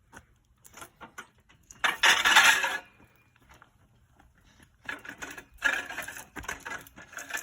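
Metal hand truck clanking and scraping as its nose plate is worked under a water heater: a loud scrape about two seconds in, then a run of rattles and knocks near the end.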